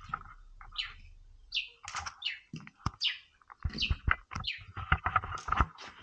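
A bird calling in repeated short, high chirps that fall in pitch. From about halfway in, green matooke bananas are snapped off the bunch and handled, giving sharp clicks and dull thuds.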